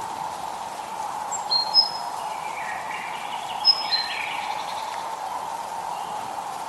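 Songbirds chirping over a steady hiss of light rain, with a few short, high chirps and quick runs of falling notes between about one and a half and four seconds in.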